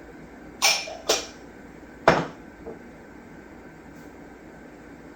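Three sharp clinks and knocks of kitchenware against a soup pot as dried herbs are added. The first two come about half a second apart and the third about a second later.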